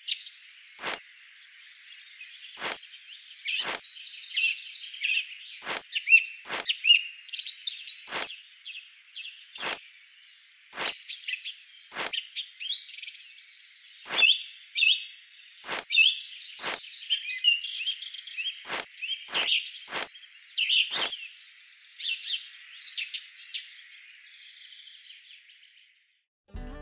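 Songbirds chirping and twittering without a break, with thin sharp clicks about once a second that stop a few seconds before the end.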